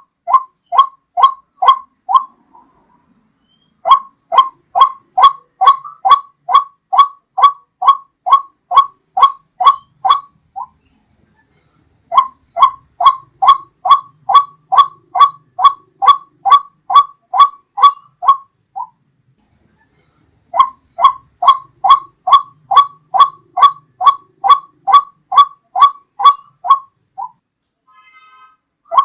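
White-breasted waterhen's call from a lure recording: loud, repeated notes at about two to three a second, in runs of several seconds broken by short pauses.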